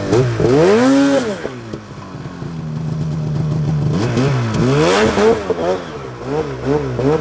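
Mountain snowmobile engine revved hard, falling back to a steady idle, then revved again with a run of quick throttle blips near the end, as the stuck sled is worked free of deep snow.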